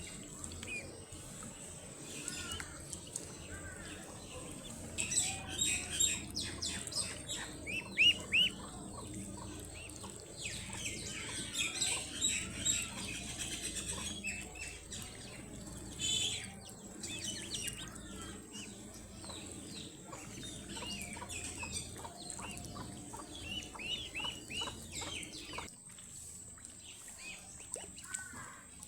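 Baby ducklings peeping: many short, high chirps in quick runs, coming in bursts with quieter stretches between.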